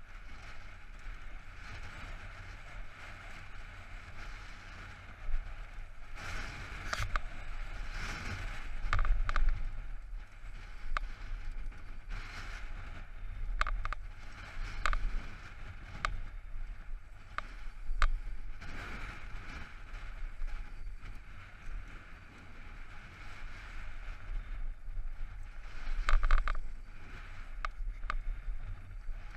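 Mountain bike riding down a dirt trail: a steady rush of wind on the microphone and tyre rumble, broken by many sharp clatters and knocks from bumps, the loudest a third of the way in and again near the end.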